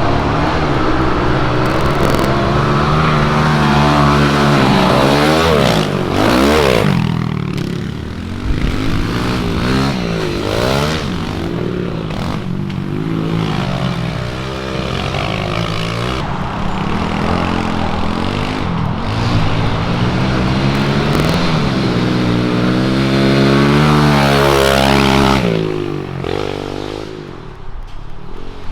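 Small single-cylinder four-stroke pit bike engine being ridden hard, its revs rising and falling over and over. The engine sound fades somewhat near the end.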